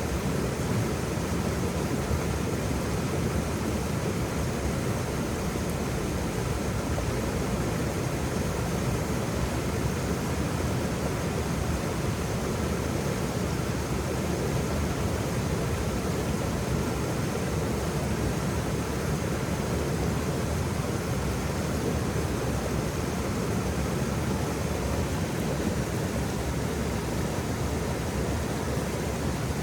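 Waterfall rushing: a steady, unbroken roar of falling water, heaviest in the low range.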